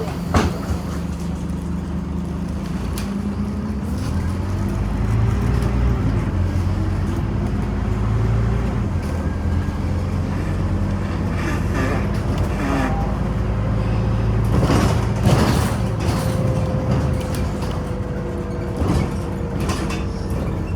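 Scania Omnicity city bus running on the road, heard from inside the cabin: a steady low diesel engine and drivetrain hum that shifts in level as it drives, with road noise and cabin rattles and a sharp knock about half a second in.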